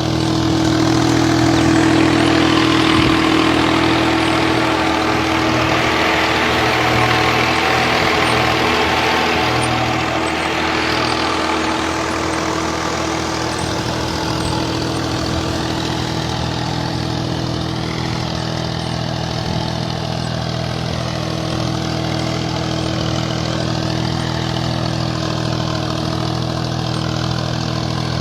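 VST Shakti 180D mini tractor's diesel engine running steadily at idle, a little louder for the first dozen seconds, then settling to an even note.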